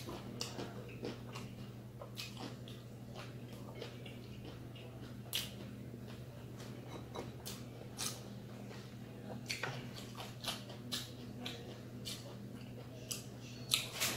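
Crispy fried chicken skin being bitten and chewed, with scattered irregular crunches over a steady low hum.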